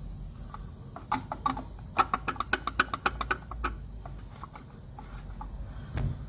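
Engine running with a low steady hum, with a run of sharp, irregular clicks for about three seconds starting a second in, and a dull thump near the end.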